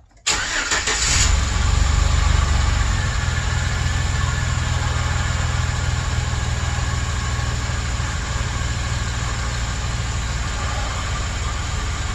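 A 2008 Chevrolet Express van's engine comes in suddenly, loudest over the first couple of seconds, then settles into a steady idle.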